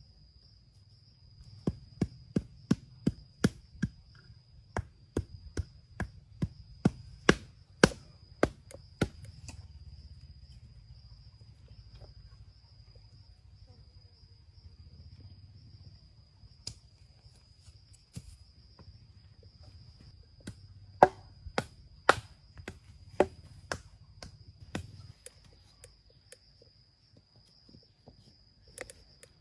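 Rapid chopping blows, a tool striking wood about two to three times a second, in a long run near the start and a shorter run later on. A steady high-pitched cricket drone runs underneath.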